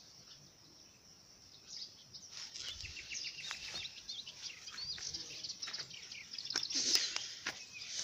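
Small birds chirping, many short high calls overlapping, starting about two seconds in. A few sharp clicks come near the end.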